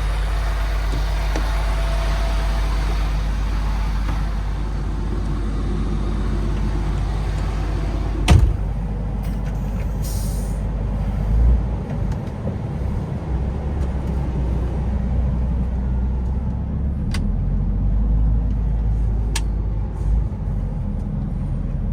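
MAN TGX 18.510 truck's diesel engine running with a steady low rumble. A sharp knock comes about eight seconds in, followed about two seconds later by a short hiss of air, with a couple of light clicks near the end.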